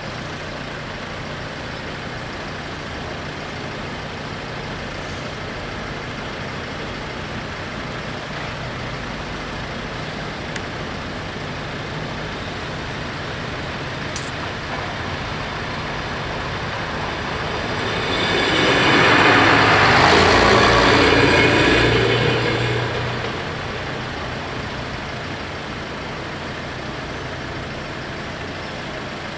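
A train passing over the level crossing: its rumble and wheel noise rise over a few seconds, are loudest a little past the middle, then fade, over a steady low hum.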